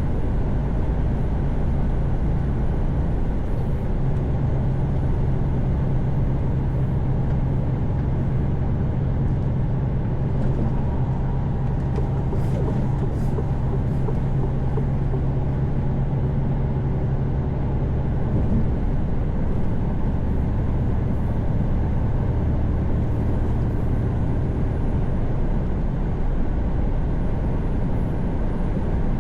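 Mercedes-Benz Actros truck cruising on the highway, its engine drone and road noise heard from the cab, steady throughout. About two-thirds of the way through, the engine's tone drops lower as the revs fall.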